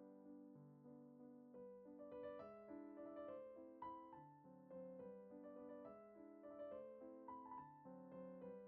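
Soft background piano music, a gentle melody of held notes.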